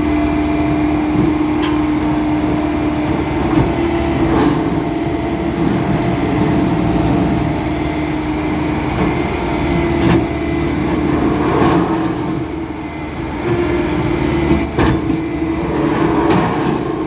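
Diesel engine of a Bomag vibratory roller running steadily, with a few short clanks along the way.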